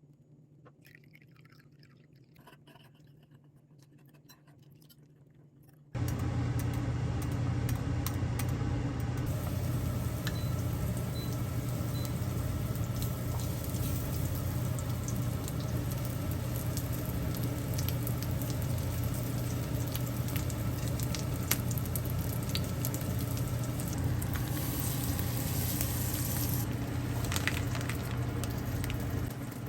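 Steady kitchen noise, a low hum with a hiss, that starts abruptly about six seconds in and runs on, with light clinks and ticks of cooking over it.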